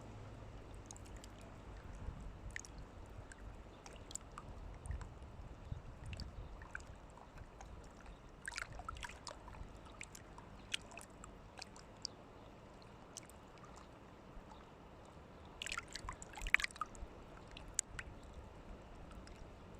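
Water sloshing and splashing, with scattered small splashes that cluster about halfway through and again near the end, over a faint low rumble.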